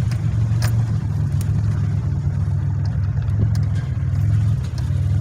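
Car engine running steadily, a low hum with a few faint clicks over it.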